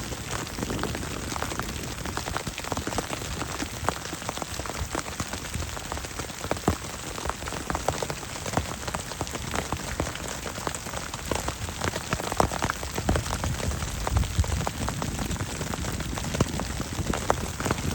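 Heavy rain falling steadily, with many sharp individual drop impacts close by over the even hiss of the downpour.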